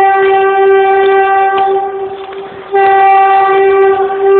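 Train horn sounding one steady note in long blasts: it breaks off about two seconds in and blows again shortly before three seconds.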